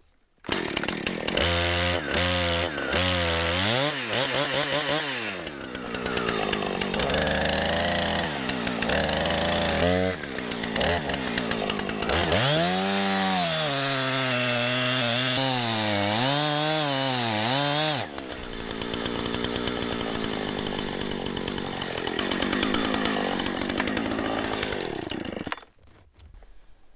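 Husqvarna 455 Rancher chainsaw comes on about half a second in and is revved and run through a cut, its engine pitch rising and falling and dipping under load, then stops near the end. It is run to loosen a chain that had tightened up with wood packed in it.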